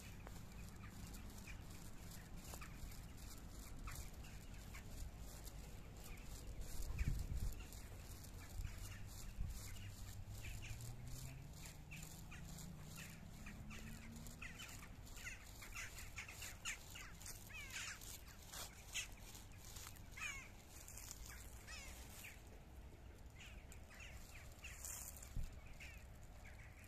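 Birds calling in woodland: many short calls over a steady low rumble. There is a low thump about seven seconds in and a slowly rising low hum a little after.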